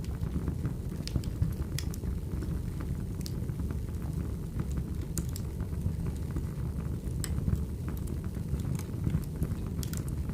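Firewood burning: a steady low rumble of the fire with sharp crackles and pops, about one a second.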